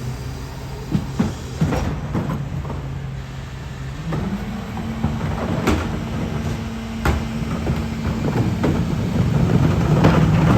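Peterbilt 520 garbage truck's diesel engine running steadily, then speeding up about four seconds in and holding the higher speed. Scattered clanks and knocks sound over it.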